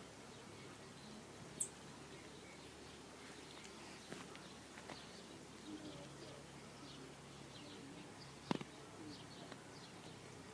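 Faint outdoor background with scattered short, high bird chirps. There are two sharp clicks: a small one about one and a half seconds in and a louder one about eight and a half seconds in.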